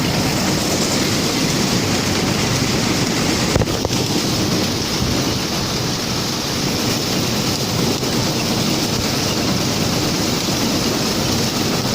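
UTB DTC diesel tractor running steadily under load while driving a Bodini corn picker harvesting maize. It makes a loud, continuous mechanical noise.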